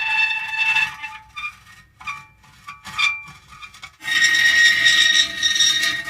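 Metal creaking: long, high-pitched squeals of metal rubbing under strain. They break into short, scattered squeaks for a few seconds, then a loud, held squeal starts again about four seconds in.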